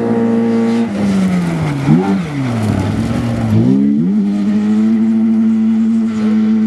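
Rally car engine running hard at high revs. From about a second in, the revs fall, jump and climb back a few times, then hold steady and high again.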